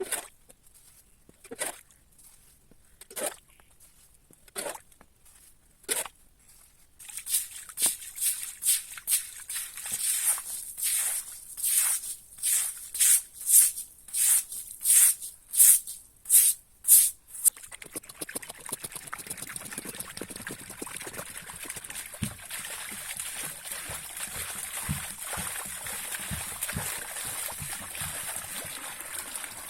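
Water poured into a small hand-dug water hole, running as a steady trickle from about halfway through. Before that comes a series of sharp strokes, spaced out at first and then quicker.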